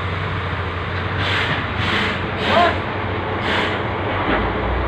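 Steady engine rumble with a low hum, broken by four short hissing noises and a brief squeak about halfway through.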